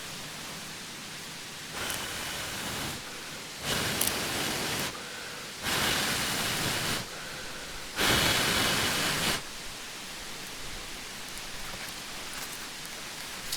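Steady outdoor hiss that jumps louder four times for a second or so each, starting and stopping abruptly.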